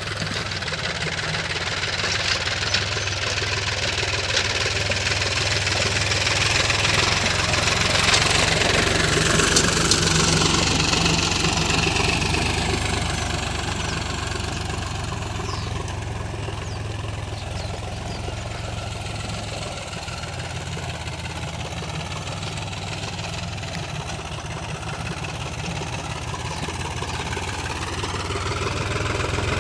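Engine of a ploughing machine running steadily under load. It gets louder about eight to ten seconds in, then eases off a little.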